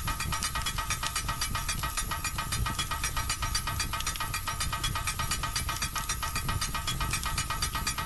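Fireplace crackling: a dense, irregular run of small pops and snaps over the low rumble of the flames.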